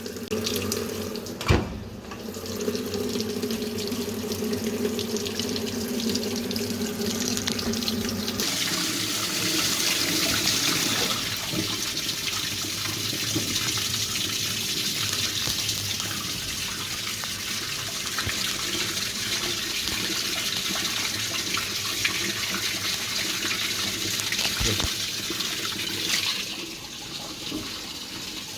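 Fisher & Paykel washing machine running on test: a steady hum of several tones for about the first eight seconds, with a click early on, then water rushing into the tub as it fills, easing off shortly before the end.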